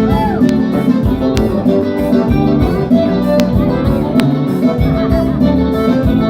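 Forró band playing an instrumental passage without singing, guitar to the fore over bass and regular drum hits.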